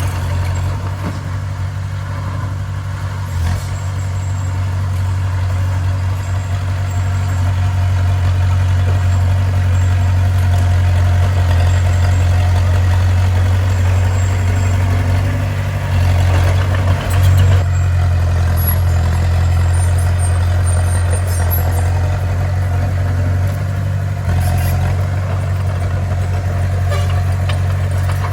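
Diesel engine of a bulldozer running steadily, a loud low drone that swells briefly about two-thirds of the way through.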